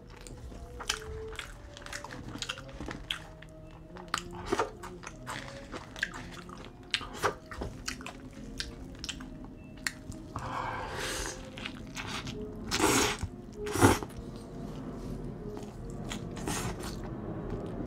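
Close-miked chewing and biting of a Burger King Whopper with cheese and bacon: wet mouth clicks and smacks throughout, with a few louder bursts of bite noise about ten to fourteen seconds in.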